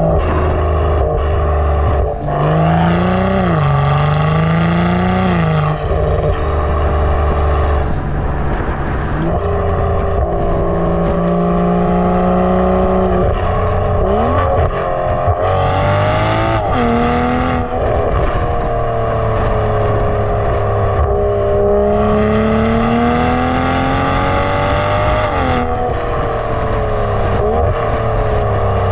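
BMW M340i's turbocharged 3.0-litre inline-six running through a full Fi valved exhaust, pulling up through the revs and dropping back several times, with loud climbs in pitch around two seconds in, mid-way and near the end.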